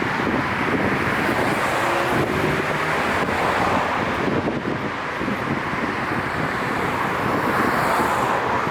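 Downtown street traffic: a steady wash of cars passing, mostly tyre and road noise.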